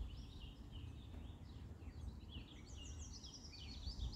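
Small birds chirping, faint, in quick repeated notes and short rapid trills, over a steady low rumble.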